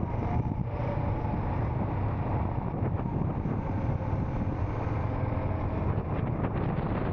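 Royal Enfield Scram 440's single-cylinder engine running steadily while riding, with wind rushing over the microphone.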